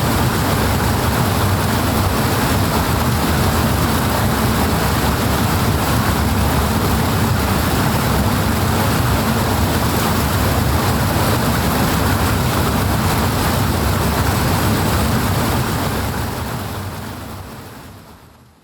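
Powerful rushing water, a steady, dense roar with a heavy low rumble, fading out over the last few seconds.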